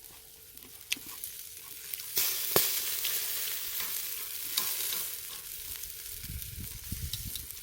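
Food sizzling on a grill over a charcoal brazier: a steady hiss that gets louder about two seconds in, with a few sharp pops of fat or juice. A low rumble comes in near the end.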